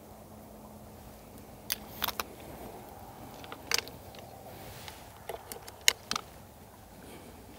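Mainhunter Doom reverse-limb crossbow being cocked by hand: a few sharp, separate clicks and knocks from the mechanism, three close together about two seconds in, one near four seconds, and a cluster around six seconds, the loudest there.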